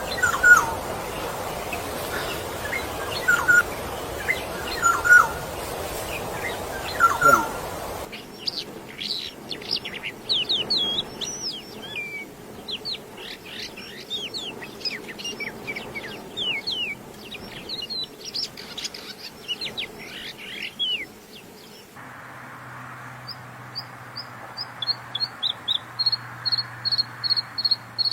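Songbird calls in three spliced recordings. First come a few short calls about a second and a half apart over a noisy background. From about eight seconds there is a rapid jumble of high chirps, and from about twenty-two seconds a run of repeated high notes that grows quicker and denser near the end.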